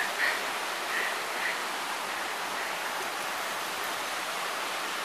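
Steady rush of water from a mountain stream, with a few faint brief sounds in the first second and a half.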